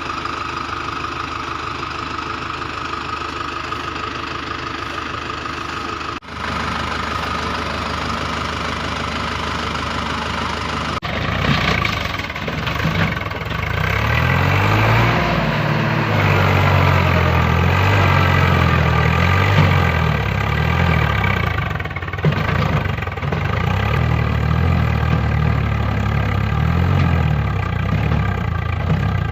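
Engine idling steadily; about 11 s in it cuts to a louder engine working hard, its pitch rising and falling.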